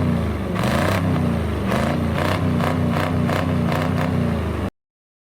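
Cold 6.2-litre diesel V8 of a K30 truck, a wavering low drone with a regular knock about three times a second. It cuts off suddenly near the end.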